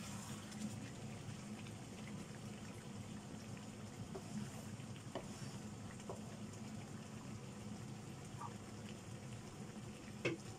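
Chicken pieces sizzling and bubbling in masala in a nonstick wok, a steady soft hiss, with a few light knocks: the loudest comes just before the end.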